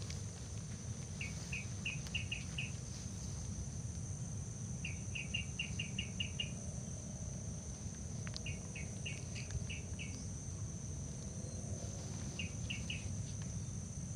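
Bird calling in repeated bursts of quick short notes, three to seven notes at a time, every few seconds, over a steady high-pitched insect drone and a low rumble.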